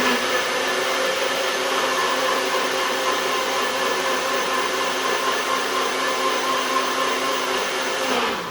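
Electric blender running at a steady speed, blending chopped carrot and water into a liquid. It is switched off near the end, and the motor winds down.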